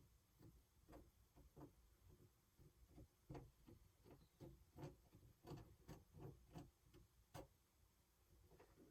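Faint, irregular clicking and tapping, some twenty sharp little clicks at about two or three a second, busiest in the middle.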